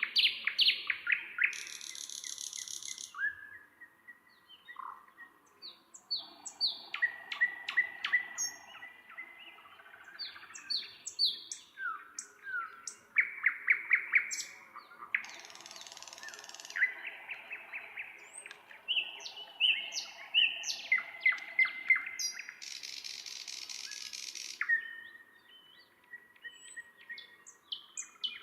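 Nightingale singing a varied song of rapid repeated clicking notes, pure whistles and harsh rattling trills, phrase after phrase with short pauses between.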